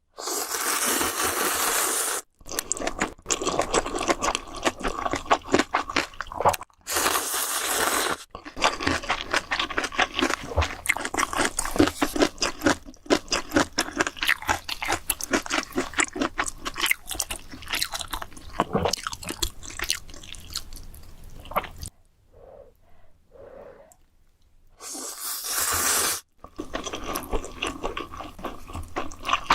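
Close-miked eating: chewing and crunching in quick irregular clicks, broken three times by a continuous noisy stretch lasting a second or two.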